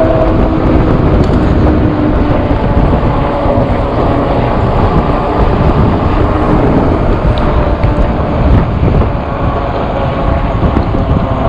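Wind buffeting the microphone of a moving e-bike, with tyre and road noise; a steady motor whine fades out about half a second in.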